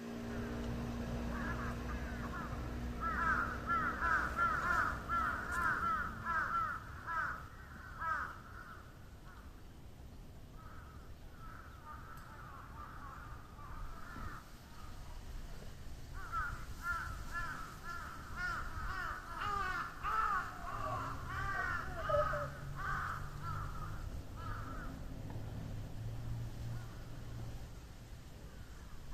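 Crows cawing over and over in two long spells, many calls overlapping, with fewer calls in between.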